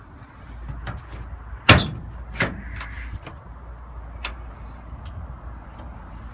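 A pickup truck door shutting with one sharp thump about two seconds in, followed by a lighter knock and a few faint clicks.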